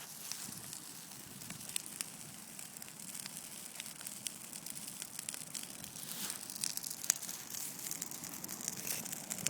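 Christmas tree burning in a bonfire, crackling: a steady hiss of flame with many sharp pops, busier in the second half.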